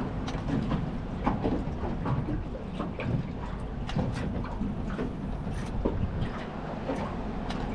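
Small fishing boat on the water: a steady low rumble with light clicks and knocks scattered through it.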